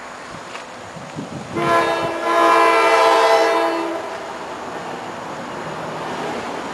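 NJ Transit train sounding its multi-tone air horn in one long blast starting about a second and a half in and lasting about two and a half seconds, followed by the steady rumble of the train running past.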